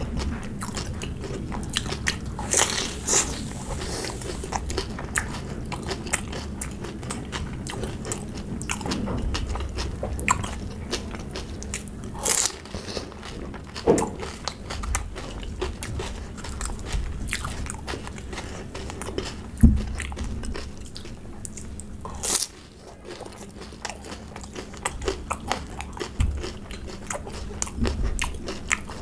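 Close-miked chewing and crunching of pani puri, the crisp fried puri shells cracking between the teeth, with a few louder sharp crunches along the way.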